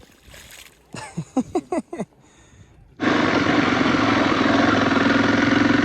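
A motorcycle engine running steadily with wind noise, starting abruptly about three seconds in and much louder than what comes before. Before it, a few short cries slide in pitch.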